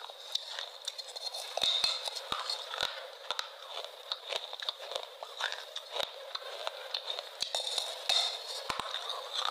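Close-miked ASMR crunching: a dense, continuous run of crisp clicks and crackles of something brittle being bitten and chewed.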